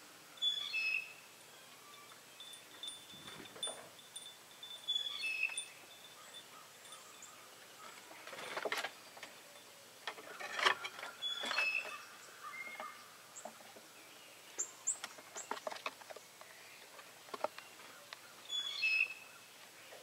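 Songbirds calling in bare winter woods: the same short, high call comes back four times, with thin, very high chirps between, and scattered soft rustles and taps.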